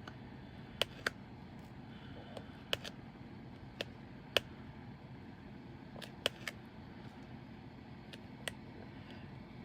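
Diamond painting drill pen pressing resin drills onto the sticky canvas: sharp, irregular clicks, often in pairs, about one every second, over a steady low hum.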